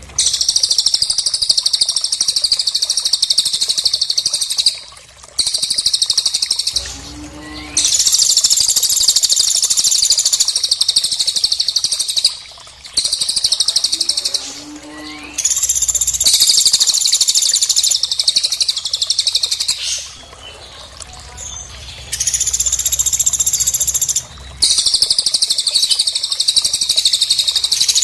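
Cililin and pelatuk (woodpecker) calls: rapid high-pitched bird trills in bouts of a few seconds, separated by brief pauses.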